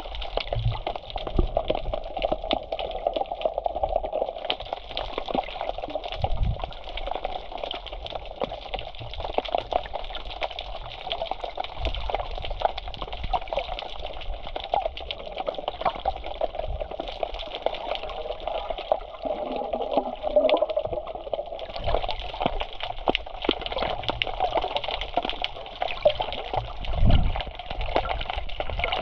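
Sea water sloshing and gurgling, thick with small crackles and a few low thumps.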